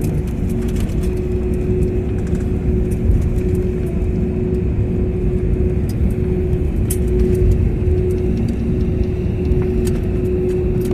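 Airliner cabin noise while the plane taxis after landing: a steady low engine rumble with a constant hum.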